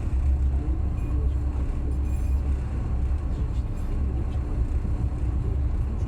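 Passenger train running along the line: a steady low rumble of the moving train with a faint steady hum above it.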